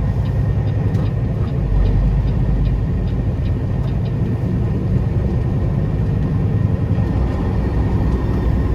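Inside a semi-truck cab: the diesel engine of a Peterbilt 389 tractor running under way, with a steady low rumble and road noise.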